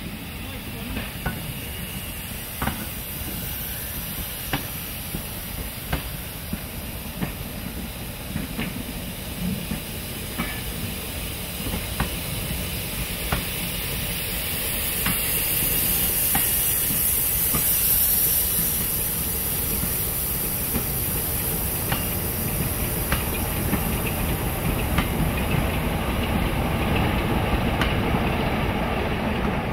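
Passenger train coaches rolling slowly past, their wheels clicking over rail joints about every one and a half seconds, over a steady rumble and hiss. The rumble and hiss grow louder from about halfway.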